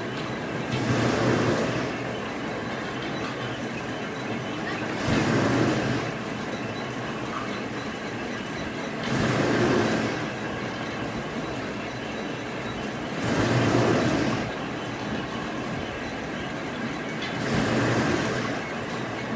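Machinery running steadily, with a louder noisy swell about every four seconds, five times in all, like a repeating work cycle.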